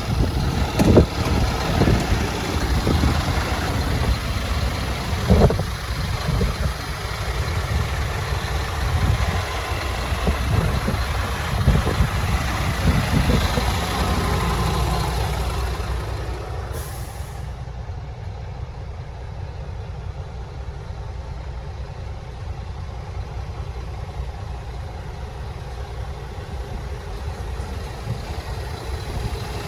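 Scania R480 truck's six-cylinder diesel engine running at idle. In the first half it comes with a noisy hiss and a few sharp knocks. About 17 seconds in the hiss drops away, leaving a quieter, steady low engine hum.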